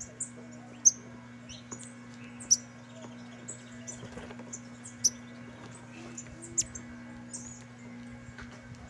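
Saffron finches calling, many short high chirps, a few sharper and louder than the rest, over a steady low hum.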